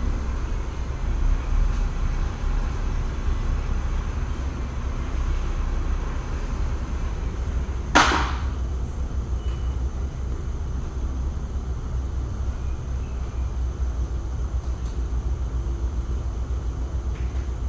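Steady low rumble of workshop background noise, broken once by a single sharp knock about eight seconds in.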